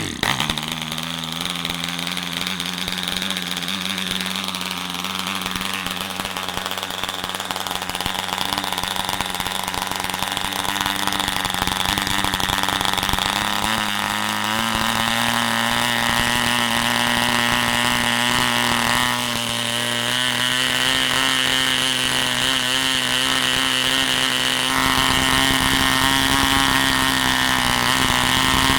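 WOHM 5cc model diesel engine running steadily, its pitch stepping up about halfway through as it speeds up.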